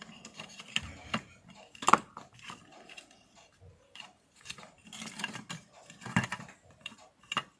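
Plastic parts of an opened lint remover being handled: irregular small clicks, rustles and knocks, the loudest about two seconds in and again just after six seconds.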